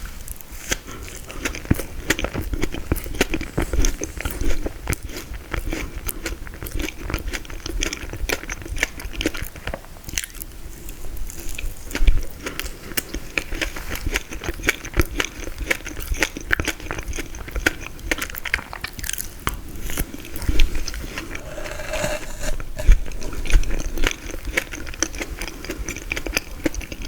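Close-miked eating of frozen tiramisu: biting and chewing with many small crunches and wet crackles. A few louder bites stand out, one about twelve seconds in and several near twenty-one to twenty-four seconds.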